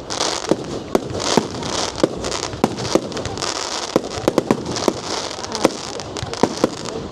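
Fireworks display: a rapid run of sharp bangs, several a second, with repeated bursts of high crackling noise between them.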